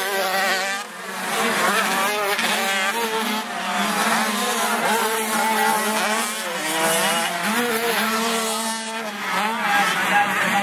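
Several motocross bike engines running together, each revving up and down in overlapping rising and falling pitches.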